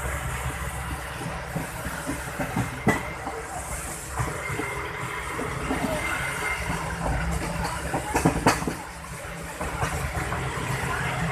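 Indian Railways passenger coach running at speed, heard from inside through an open barred window: a steady rumble of wheels on rail with air rushing past, and a few sharp knocks about three seconds in and twice near eight seconds.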